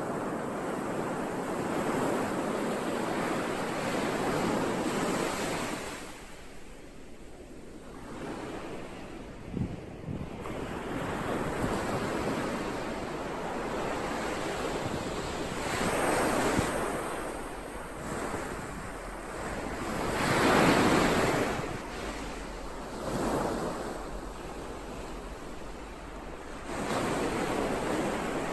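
Ocean waves breaking and washing on a shore in rising and falling surges. There is a lull about a quarter of the way in, and the loudest surge comes about three-quarters of the way through.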